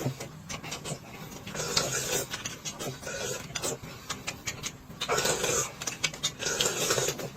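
Close-miked eating sounds: chewing with many small clicks and mouth smacks, broken by three short noisy bursts.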